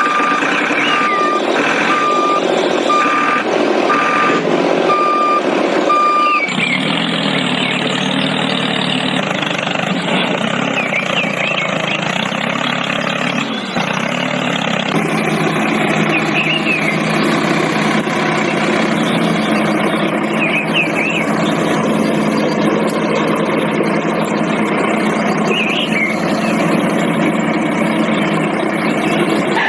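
A vehicle's reversing alarm beeping about once a second for the first six seconds, then a vehicle engine running steadily to the end.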